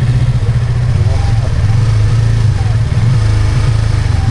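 Yamaha R25's 250 cc parallel-twin engine running steadily while the motorcycle is ridden.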